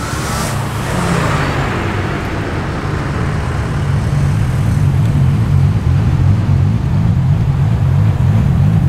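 Engines of performance cars idling and rumbling at low speed as they drive off. The rumble grows steadily louder toward the end as another car approaches.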